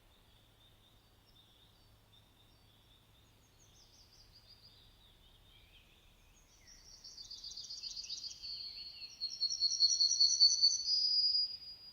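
A songbird singing: faint high notes for the first half, then from about halfway a louder, high-pitched song of rapid trills and warbled phrases that stops just before the end.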